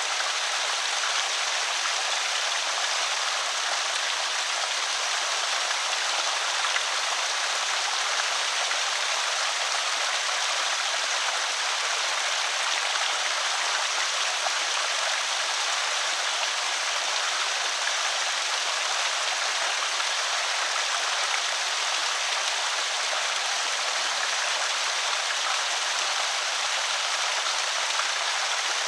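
Water trickling and splashing steadily over a small concrete creek spillway, an even rushing hiss with no breaks.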